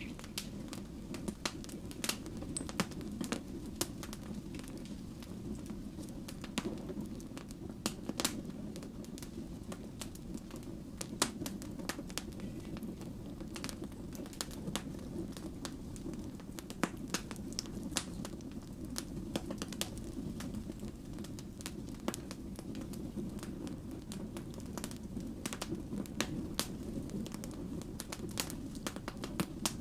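Wood fire burning, with frequent irregular sharp pops and crackles of burning logs over a steady low rumble of flames.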